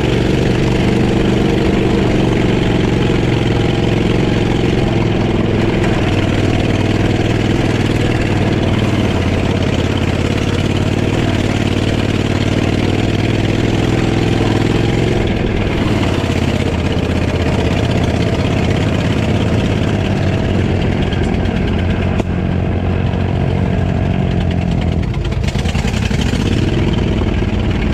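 Off-road lawnmower engine running steadily. Its pitch shifts about halfway through, then drops and climbs again near the end as the throttle changes.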